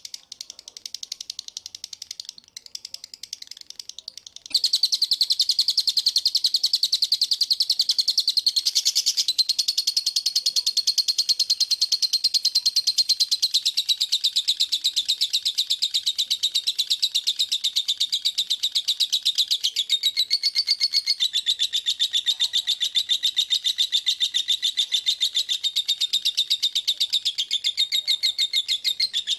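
Songbird singing a very fast, unbroken trill of chirps, the dense 'speed rapat' song used in masteran recordings to tutor caged songbirds. It is quieter at first, then much louder from about four and a half seconds in.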